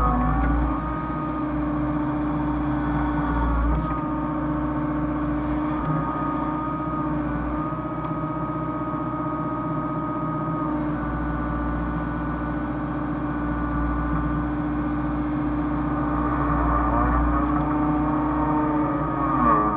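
Hyundai excavator's diesel engine running steadily as the machine works, its pitch shifting a little now and then and sagging briefly near the end.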